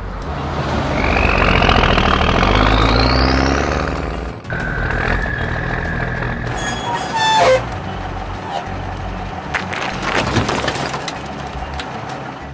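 Cartoon garbage-truck sound effects over background music. A truck engine runs and a rising whoosh sweeps up in the first few seconds. Then a steady whine holds for a couple of seconds, followed by scattered clatter and knocks as the truck tips its rear body and dumps its load.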